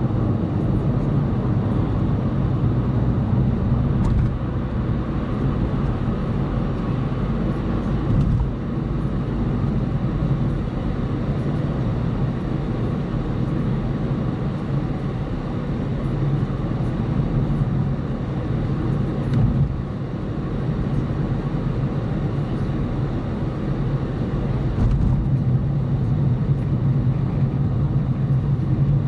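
Car driving at speed, heard from inside the cabin: a steady low rumble of engine and tyres on the road, with a couple of brief faint knocks.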